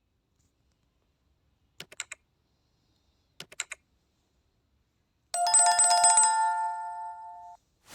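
Electronic ringtone-like trilling ring, quickly repeated steady tones starting about five and a half seconds in and fading out about two seconds later. Before it come two brief clusters of quick ticks.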